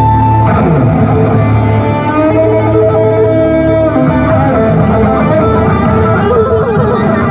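Live band music led by guitar, with held notes that change every second or two over a steady bass.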